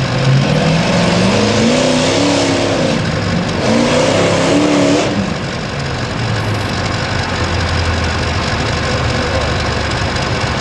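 Pulling truck's engine at full throttle, its pitch climbing, dipping briefly about three seconds in and climbing again, then falling off abruptly about five seconds in to a lower, steadier running.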